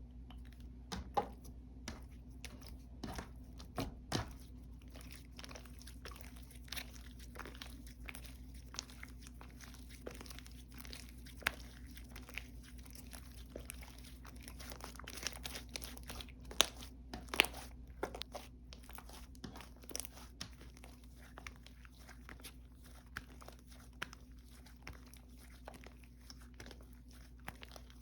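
Slime being squished, stretched and poked by hand, giving a run of small crackling pops and clicks, with a few louder snaps about a second in, around four seconds, and between sixteen and eighteen seconds.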